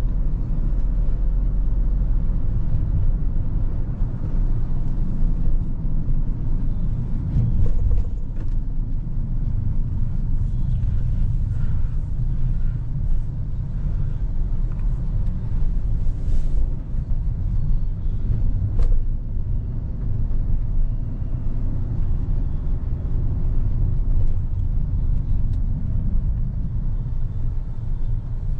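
Hyundai Creta with its four-cylinder MPI petrol engine on the move: a steady low rumble of engine and road noise, with a few faint clicks.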